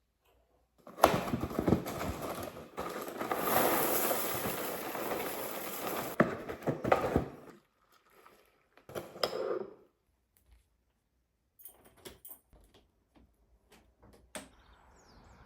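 Kitchen handling sounds from making breakfast: a dense rattling, clattering noise lasting about six seconds, then a short burst and a few scattered clinks and taps.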